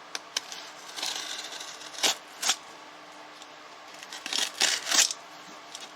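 Cardboard shipping box being cut and torn open: a run of short scraping and ripping noises from the tape and cardboard, with the sharpest rips about two seconds in and a cluster near the end.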